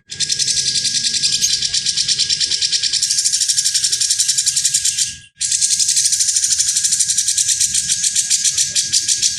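A songbird's harsh, rasping rattle call (besetan kasar), fast pulses at about ten a second. It breaks off about five seconds in and starts again a moment later.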